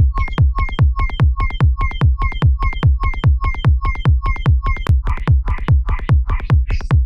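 Looping electronic trance beat: a synthesized kick drum with a falling pitch thump about two and a half times a second, and an offbeat hihat between the kicks. About five seconds in, the hihat changes from a ringing, pitched tick to a noisier, hissier tick as its sound is reworked.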